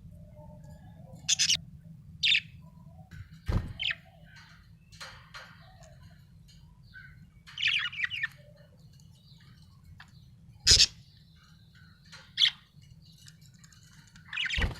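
Budgerigar chirping in short, separate high chirps a second or two apart, over a steady low hum. Two sharp knocks come about a third of the way in and about two-thirds of the way in.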